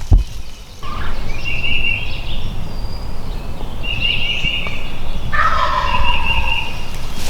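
Wild turkey gobbler gobbling three times, a couple of seconds apart, as the hunters wait on him.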